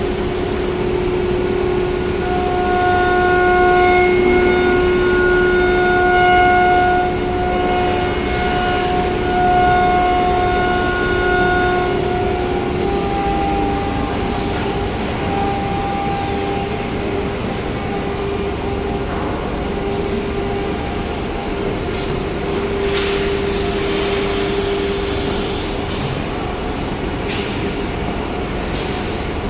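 CNC router with a carousel automatic tool changer running: a steady high spindle whine with motor tones that start and stop as the machine moves. A short hiss comes about 23 seconds in, and a rising whine near the end as a motor speeds up.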